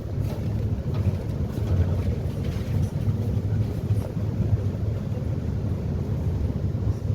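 Catamaran passenger ferry under way: its engines give a steady low drone, heard on board.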